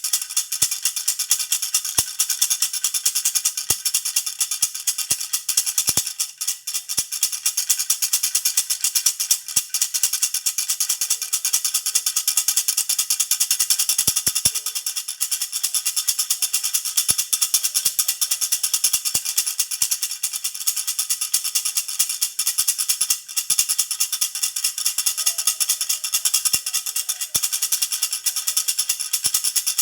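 Baby rattle (jhunjhuna) shaken steadily and fast, a continuous bright jingling with a few brief breaks in the shaking.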